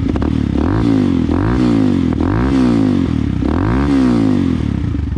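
Forte FT200GY motorcycle's single-cylinder 200 cc engine, with an aftermarket straight-through silencer, revved four times in short throttle blips, each rising and falling back toward idle.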